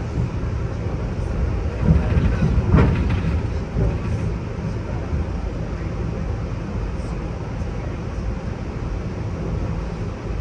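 Steady low rumble of an Amtrak Superliner lounge car under way, heard from inside the car, with a couple of brief louder knocks about two to three seconds in.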